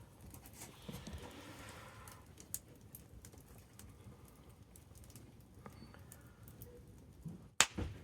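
Wood campfire crackling, with scattered small pops and ticks and one sharp, loud pop near the end.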